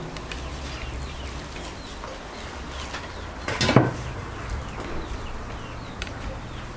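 Small birds chirping repeatedly in short, falling calls over a low steady hum, with one brief loud noisy sound about three and a half seconds in.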